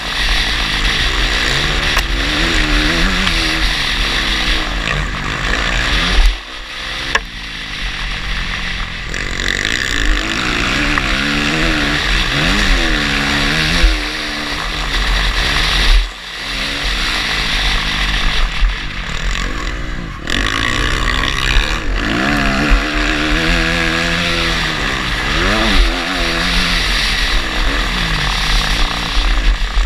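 Motocross bike engine revving up and falling away over and over as the rider opens and shuts the throttle through the gears, with a few sudden drops where the throttle is shut off. Wind rushes over the microphone.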